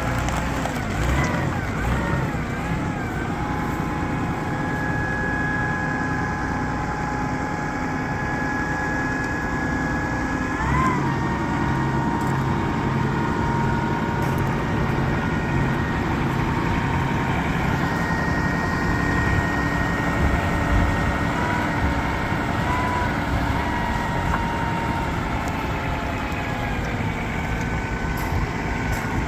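Cat D70 diesel forklift running, with a steady high whine that changes pitch a few seconds in and again about eleven seconds in as its hydraulics are worked.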